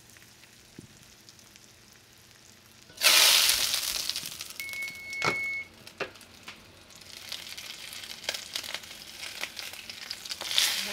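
Breaded mutton snapper roe frying in olive oil in a skillet. The first few seconds are quiet, then loud sizzling starts suddenly about three seconds in, eases off, and builds again toward the end. A short high beep sounds once near the middle.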